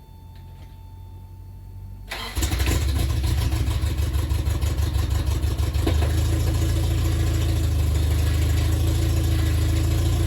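Freshly rebuilt Toyota 22RE four-cylinder engine turning over and catching about two seconds in. It runs unevenly for a few seconds, then smooths out into a steady high idle: a first start-up after the rebuild.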